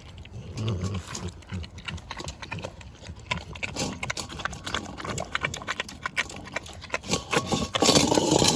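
American Bully dog chewing and crunching a raw Cornish hen: a dense run of sharp crunches and cracks from the bird's bones, with a louder stretch near the end.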